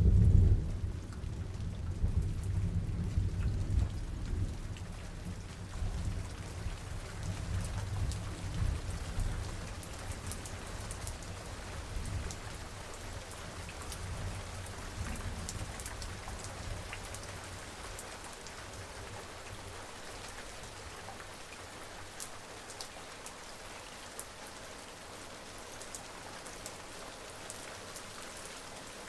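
Thunderstorm: a thunderclap right at the start whose low rumble rolls on and fades away over the next fifteen seconds or so, over steady rain with scattered drops.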